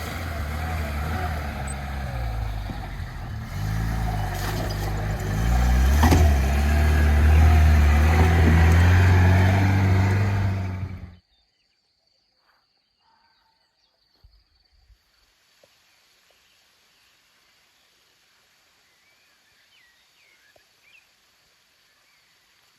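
Lada Niva's four-cylinder engine running under load, its pitch rising and falling with the throttle and louder about six seconds in. It cuts off abruptly about eleven seconds in, leaving near silence with a few faint small sounds.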